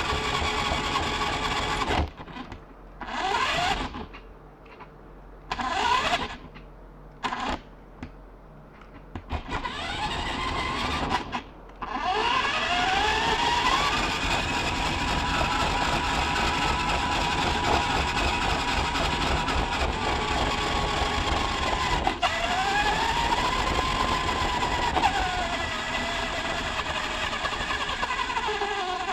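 Radio-controlled model truck driving, its running sound rising and falling in pitch as it speeds up and slows. It stops and starts several times in the first ten seconds, then runs on with slow swells in pitch.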